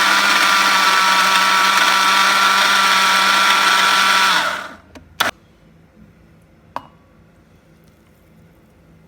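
Electric blender running steadily at high speed, grinding a curry paste of onions, tomatoes and spices. It is switched off about four seconds in and its pitch falls as it winds down. Two sharp knocks follow, about a second and a half apart.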